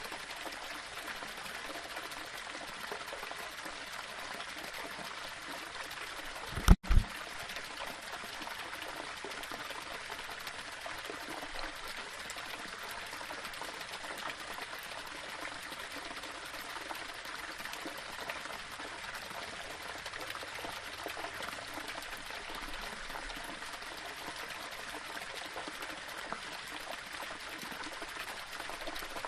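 Small waterfall trickling and splashing steadily over stones. About seven seconds in, a brief, loud low thump cuts in.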